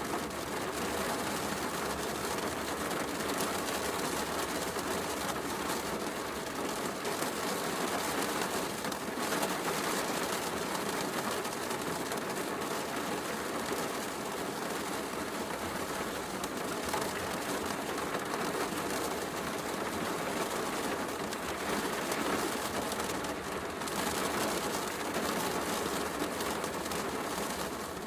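Steady heavy rain hissing without a break, mixed with a log fire crackling now and then.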